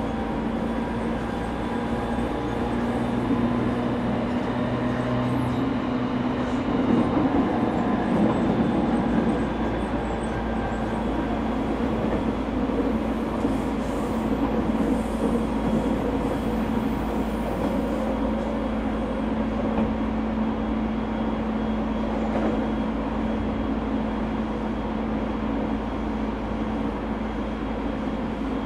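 Inside a JR 209 series 0 (unrenovated) electric motor car running between stations: continuous wheel-on-rail rumble with several steady whining tones from the traction equipment. It gets louder briefly about seven to nine seconds in.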